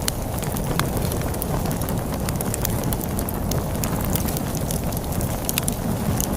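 Log fire crackling, with many small sharp pops and snaps at irregular intervals over a steady low rumble of storm wind.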